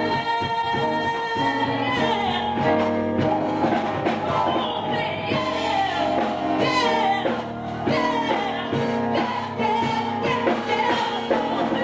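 Gospel worship song: voices singing a melody over steady instrumental accompaniment.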